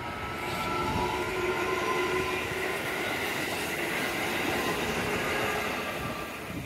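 Sanyo Electric Railway 6000-series electric train passing close by. Its running noise rises as it arrives and eases off near the end, with a steady whine running through it.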